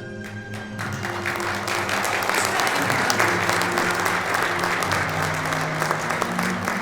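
Audience applauding, starting about a second in, over steady background music.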